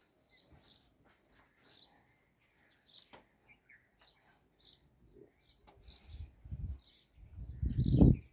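A small bird chirping over and over, a short high call roughly once a second. Near the end a louder low rumbling noise builds up.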